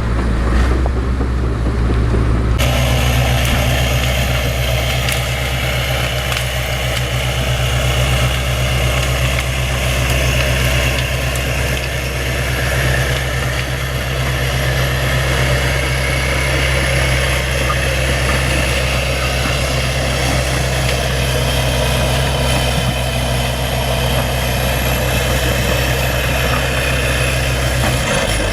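Bulldozer's diesel engine running steadily, with an abrupt change in the sound about two and a half seconds in.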